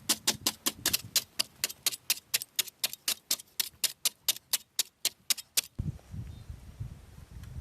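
Rapid, even tapping: sharp clicks at about five a second that stop suddenly about three-quarters of the way through, followed by a low rumble.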